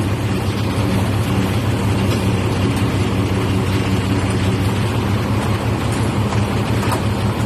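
Boom crane truck's engine running steadily at a constant speed.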